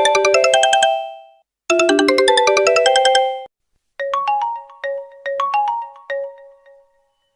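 Smartphone ringtones played back to back. A quick, bright tune of rapid notes plays twice with a short pause between. About four seconds in, a different, slower ringtone of single plucked notes starts and fades out.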